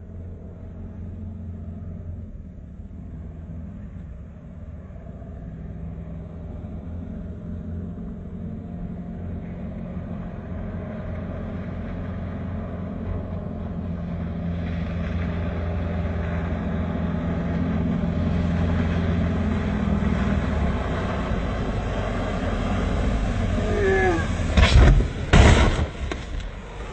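Boat engines running as a steady low drone that grows gradually louder, then a few loud, sharp impacts near the end.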